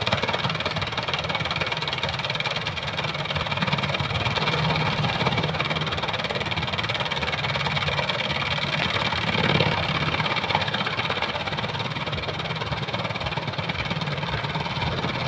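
Tractor engine running steadily, with a brief louder swell about nine and a half seconds in.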